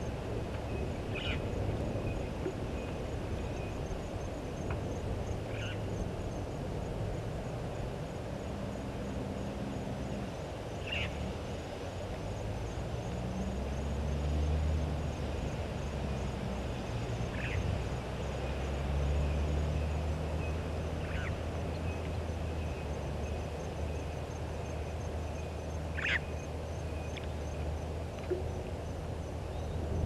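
About six short, sharp bird calls spread through, over a low rumble that swells in the middle and a faint, high-pitched trill.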